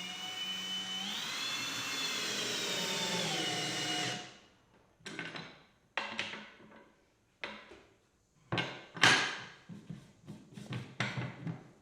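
Power drill running for about four seconds, its motor pitch rising about a second in and dropping again near the end of the run. This is followed by a series of irregular knocks and clatters of wood being handled.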